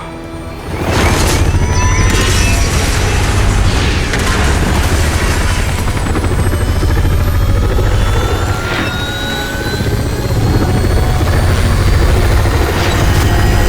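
Film sound effects: a helicopter's rotors chopping loudly, coming in just under a second in, with several sharp booms breaking in over it as the helicopter comes under fire.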